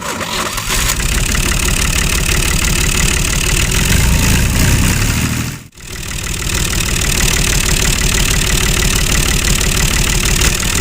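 A small engine running steadily with a fast, even pulse. It cuts out for a moment a little past halfway, then comes back.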